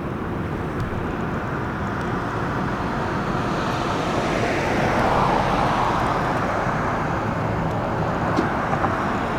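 Road traffic noise: a steady low rumble with one vehicle passing, swelling and fading, loudest about five seconds in.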